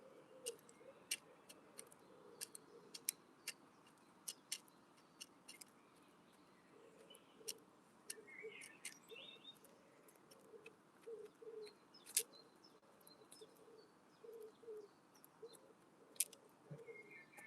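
Wood pigeon pecking seed at a window bird feeder: sharp, irregular beak clicks, the loudest about twelve and sixteen seconds in, with a few short bird chirps in the background.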